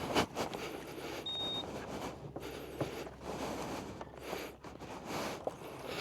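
Irregular rattling and bumping of a ride over a rough dirt road. One short, high beep sounds about a second in.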